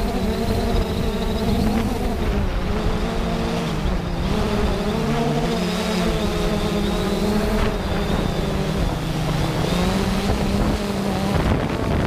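3DR Solo quadcopter's motors and propellers humming steadily in flight, heard through the GoPro mounted on the drone. The pitch shifts up and down a little several times as the drone manoeuvres.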